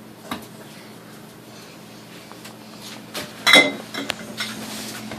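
Beer containers being loaded into a fridge: scattered knocks and clinks as they touch each other and the shelves, the loudest a ringing clink about three and a half seconds in.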